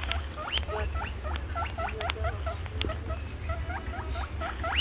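Small animals squeaking rapidly, a quick run of short chirps that sweep upward in pitch, several a second, over a steady low hum.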